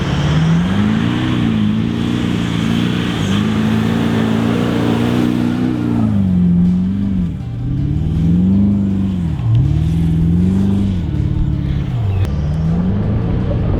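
Toyota LandCruiser 200 series V8 engine revving hard, its pitch rising and falling about five times as the four-wheel drive struggles for traction in soft sand.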